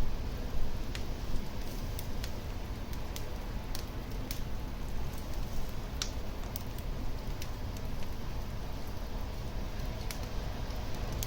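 Wood fire burning in a fireplace: a steady low rumble and hiss of flames with irregular sharp crackles and pops scattered throughout.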